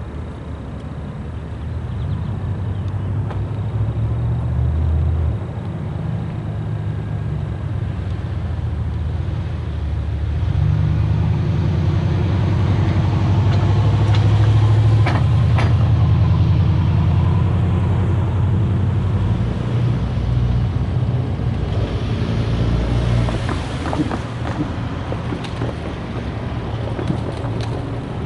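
Diesel-electric switching locomotive's engine working close by, its pitch and loudness shifting with the throttle and loudest about halfway through, with a few sharp metallic clicks.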